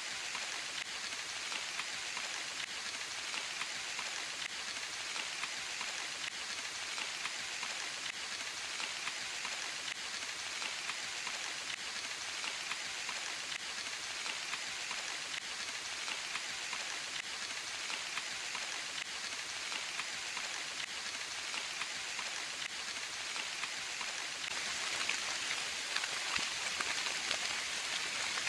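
Steady rain falling, a dense patter of fine drops with no break, growing a little louder near the end.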